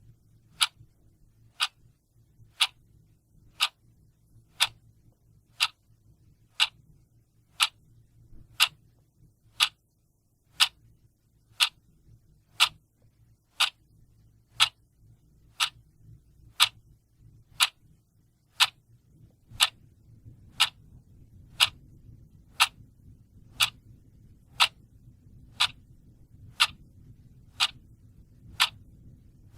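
A clock ticking steadily, about one sharp tick a second. A faint low hum in the background grows slightly louder about two-thirds of the way through.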